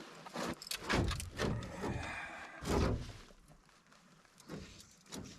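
Irregular knocks and thumps, several in a row with the loudest about a second in and near the middle, as of gear and a fish being handled in a fishing boat.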